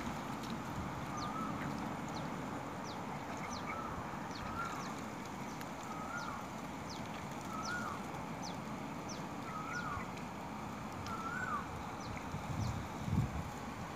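A bird calling over and over, a short note that rises then falls, about every second and a half, with thin high chirps between, over a steady outdoor hiss. A few low thumps come near the end.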